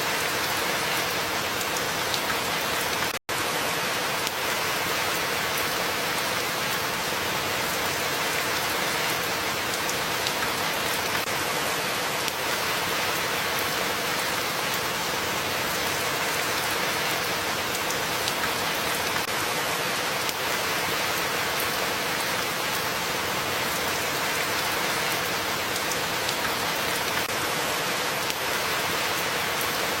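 Steady rain falling, with a split-second dropout to silence about three seconds in.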